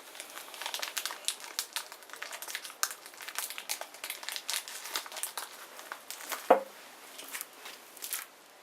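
Small wood bonfire crackling, with irregular quick pops and one louder, sharper snap about six and a half seconds in.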